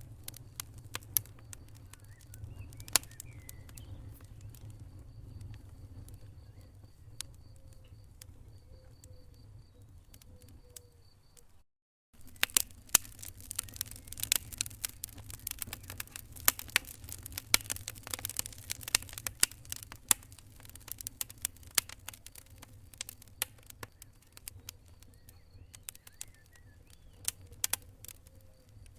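Wood fire crackling in a fireplace: irregular sharp pops and snaps over a low rumble of the flames. The sound drops out for a moment about twelve seconds in, then the crackling comes back busier.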